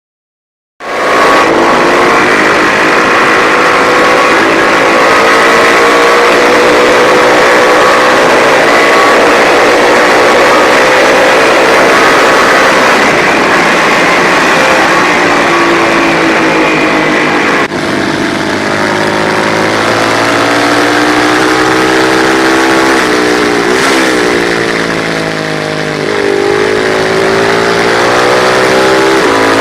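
Matchless G50 single-cylinder race engine running hard at high revs, its pitch gliding slowly up and down through the corners. It cuts in suddenly about a second in, and later drops sharply in pitch and volume before climbing again as the bike brakes, shifts down and accelerates away.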